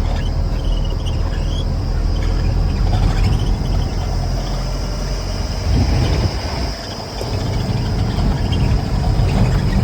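A machine engine runs with a low rumble that eases for a moment about six seconds in. Insects keep up a steady high-pitched chirring above it.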